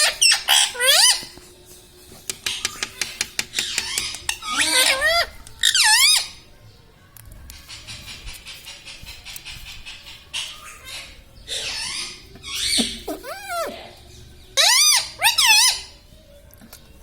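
Indian ringneck parakeet calling: clusters of loud, shrill squawks that swoop up and down in pitch, with a run of quick clicking chatter between them.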